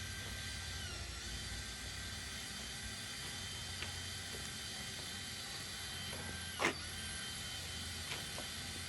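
A steady low mechanical hum with faint steady tones over it, and a single sharp knock a little past the middle.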